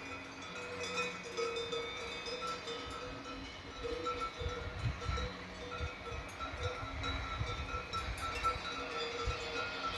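Cowbells on grazing cattle ringing, several bells clanking unevenly, with a low rumble joining in from about four and a half seconds in.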